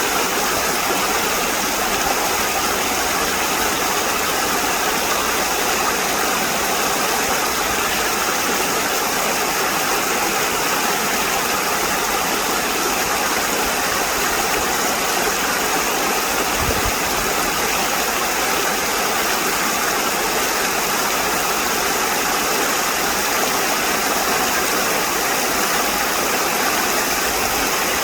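Steady, even rush of flowing stream water, with one brief low thump about two-thirds of the way through.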